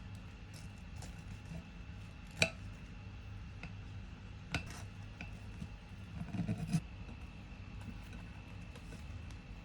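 A few sharp clinks and knocks of tableware being handled: one clear clink about two and a half seconds in, another about two seconds later, and a short cluster of duller knocks near the two-thirds mark, over a faint steady high hum.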